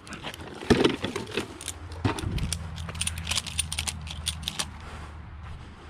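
Ratchet straps being re-tensioned by hand: a quick run of sharp metallic clicks from the ratchet buckles as the straps tighten to pull the crash-damaged front end straight. A low steady hum comes in about two seconds in.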